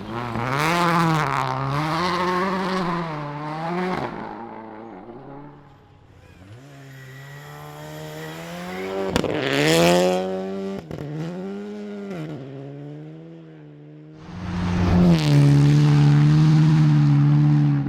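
Rally car engines revving hard, the pitch rising and falling with throttle and gear changes. About ten seconds in a car builds up in pitch and passes, and near the end a loud car held at high revs starts suddenly and cuts off.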